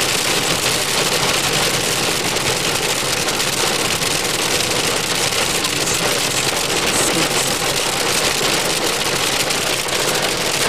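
Steady noise inside a moving car: the engine and tyres running, with rain falling on the car.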